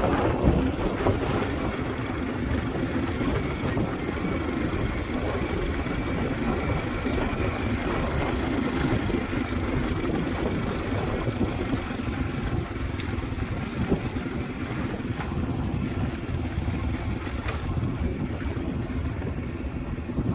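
Motorbike riding along, its engine running steadily under wind noise on the microphone.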